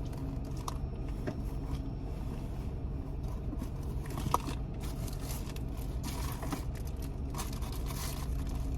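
Steady low rumble of an idling truck and its air conditioning heard inside the cabin, with scattered small clicks and rustles and one sharper click about four seconds in.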